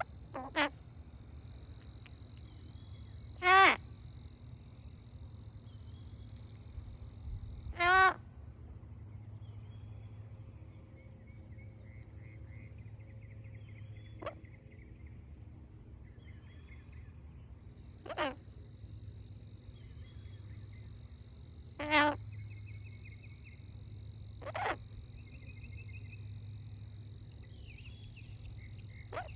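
Dusk frog and insect chorus: a steady high insect drone with faint trills underneath. A loud, short, pitched call rings out six times at irregular intervals of a few seconds.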